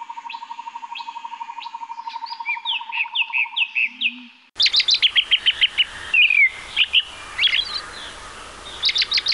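Birds chirping and singing in quick, repeated short notes and falling whistles. For the first four and a half seconds a steady, fast-pulsing trill runs under them, then the sound switches abruptly to a fuller recording of birdsong.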